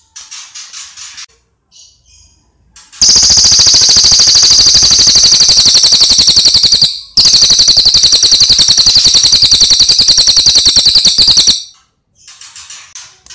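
Songbird: a few short, soft chirping phrases, then a very loud, rapid, machine-gun-like rattling trill of high notes for about eight seconds, broken once briefly near the middle, then soft chirps again near the end.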